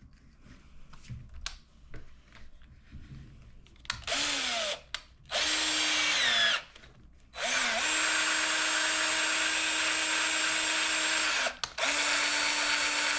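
Handheld electric drill-type power tool run in four bursts starting about four seconds in, the motor's pitch rising as it spins up and falling as it winds down; the third burst is the longest. Light handling clicks come before it.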